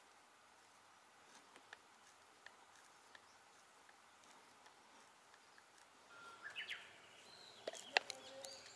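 Faint scattered clicks of small plywood pieces being handled on a workbench, then a bird chirping near the end, with a short cluster of sharp clicks just before the end.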